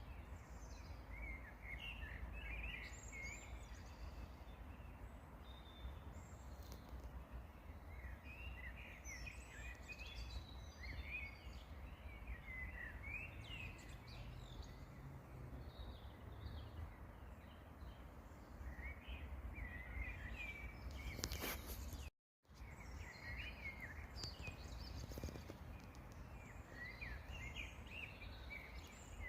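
Small songbirds chirping and singing in short, scattered twittering phrases over a steady low rumble of outdoor background noise. A sharp click and a split second of complete silence come about three-quarters of the way through.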